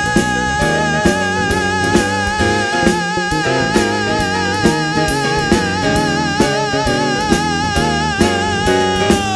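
Instrumental band music with drums and guitar: one long held note, wavering in pitch, over a steady beat, sliding down at the very end.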